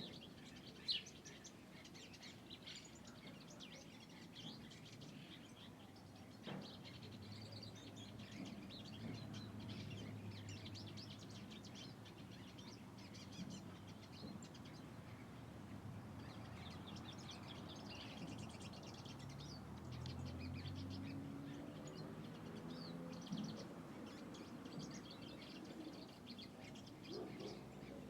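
Small birds chirping and calling, many short, high-pitched chirps scattered throughout, faint. A low hum rises and fades underneath twice.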